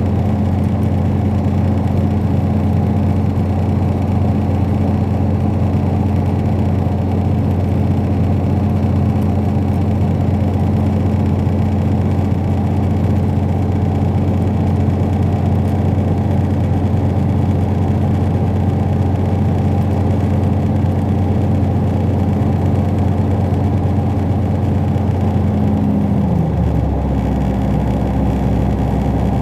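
Diesel train engine running steadily under power, a deep hum with a steady higher drone, heard from inside the carriage. About 26 seconds in the pitch falls and settles lower as the engine throttles back.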